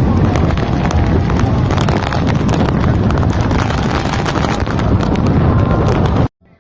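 Heavy rain and strong wind buffeting the microphone, with a dense patter of sharp rain taps over it. It cuts off abruptly about six seconds in.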